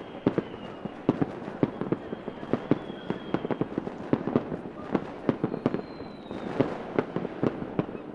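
Fireworks going off: a dense, irregular string of bangs and pops over a continuous crackle, with a faint high whistle rising over it three times.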